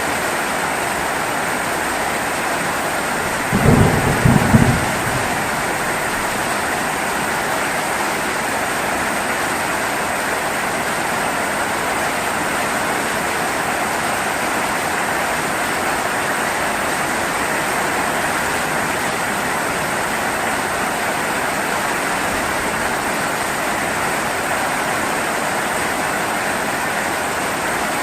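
Steady rain hiss, with one short, low rumble of thunder about three and a half seconds in that lasts around a second.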